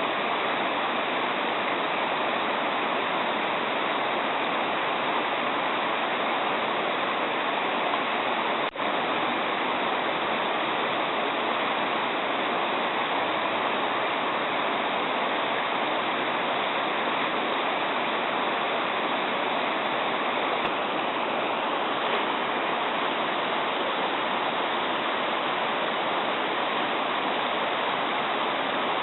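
Shallow mountain stream babbling, a steady, unbroken rush of running water.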